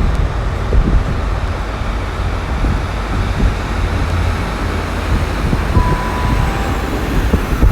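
Steady low rumble of a Class 150 Sprinter diesel multiple unit at the platform, with one short high beep about six seconds in.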